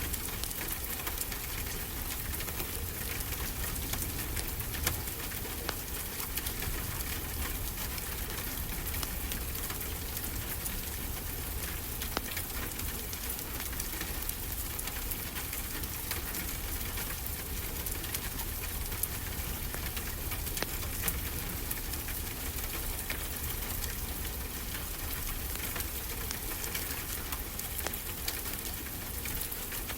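Fireplace crackling, with frequent small sharp pops, over a steady hiss and low rumble of ocean waves.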